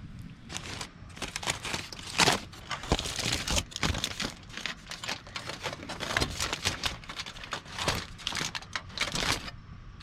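Crinkling and rustling of something being handled, in dense irregular bursts that stop shortly before the end.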